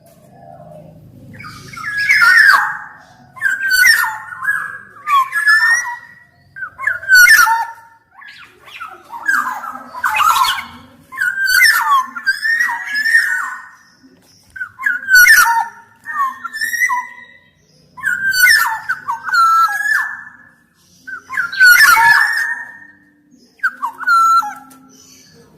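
Black-naped oriole (kepodang) singing: short, loud phrases of sliding fluty whistles mixed with sharp, harsher notes, repeated every second or two.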